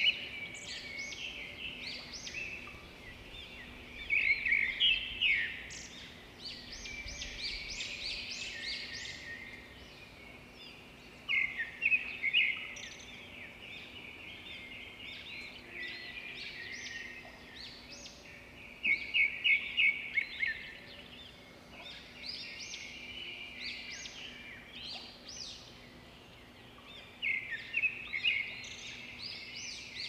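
Songbirds singing: a continuous chorus of overlapping chirps and trills. A louder burst of rapid repeated notes comes back about every seven or eight seconds.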